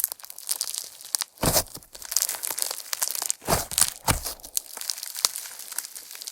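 Slime being squeezed and stretched by hand, making a dense run of tiny crackles and clicks with a few louder pops.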